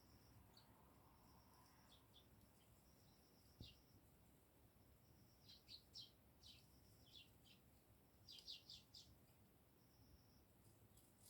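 Eurasian tree sparrows chirping faintly in short, scattered calls, with a quick flurry of chirps in the middle and another just after.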